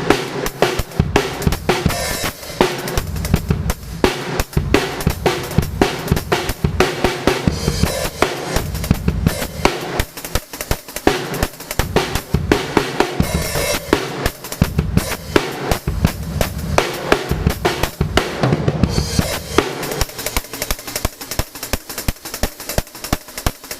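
Drum kit played in a fast punk-rock style: dense snare and bass-drum hits under ringing cymbals. The bass drum thins out in the last few seconds.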